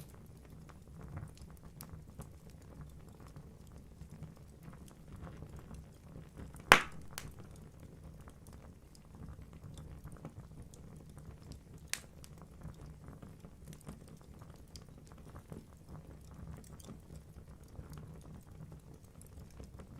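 Wood fire burning in a fireplace: logs crackling with a steady low rumble of flame, a loud sharp pop about seven seconds in and a smaller one about twelve seconds in.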